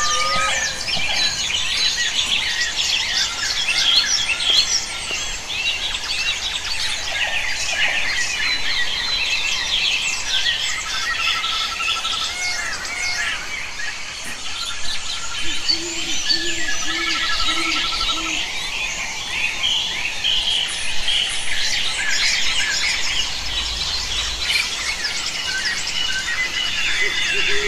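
Several wild birds calling together in a dense chorus of chirps and whistles. About halfway through there is a run of five low hooting notes.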